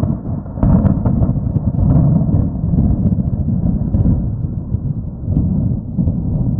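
Thunder rolling in a long, loud rumble that swells about half a second in and keeps going.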